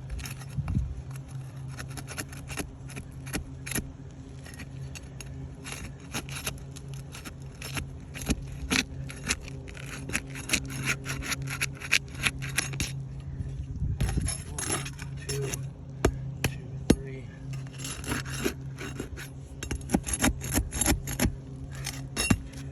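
An asphalt roofing shingle being worked loose and lifted: continuous scraping and rubbing, thick with sharp crackling clicks, over a steady low hum.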